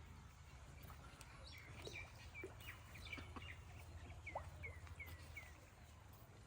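A bird calling faintly outdoors: a series of short, high chirps, about two a second, running for a few seconds, over a steady low rumble.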